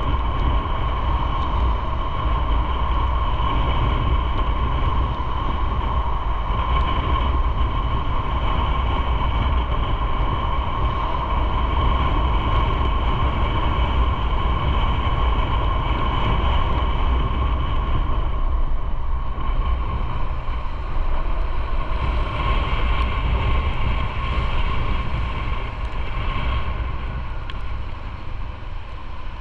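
Motorcycle on the move: a steady engine drone mixed with wind rushing over the microphone, getting quieter near the end.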